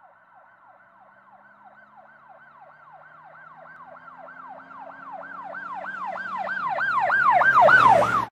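Emergency-vehicle siren in a fast yelp, about three sweeps a second, growing steadily louder and then cutting off suddenly. A faint low hum lies beneath it.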